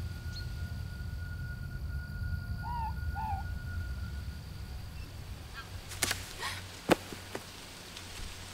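A low steady rumble under two short hooting bird calls close together about three seconds in. Around six to seven seconds in comes a cluster of sharp clicks or knocks, one much louder than the rest.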